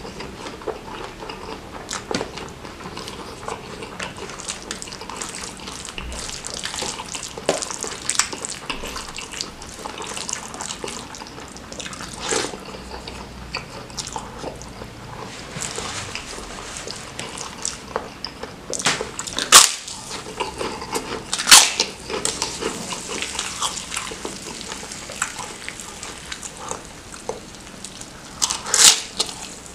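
Close-miked wet chewing and lip-smacking of a mouthful of rice, squid and chili sambal, with sticky squelches as fingers scoop the saucy rice. Small wet clicks run throughout, and a few louder sharp smacks stand out about two thirds of the way through and again near the end.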